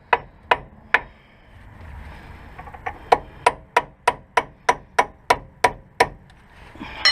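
Hammer blows on metal parts of a car's front wheel hub assembly, struck about three times a second in two runs, with a pause of about two seconds between them, each blow ringing briefly.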